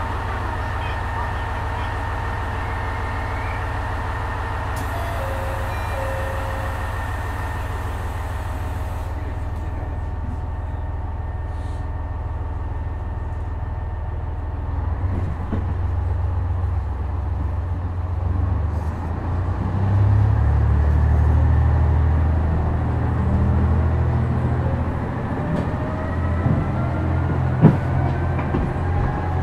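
KiHa 126 series diesel railcar heard from inside the car: a steady hum at first, then from about halfway the diesel engine comes up under load, louder and lower, with a whine that rises in pitch as the train gathers speed. One sharp click near the end.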